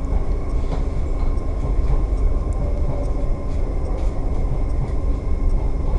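Train running past on the line, a steady low rumble throughout.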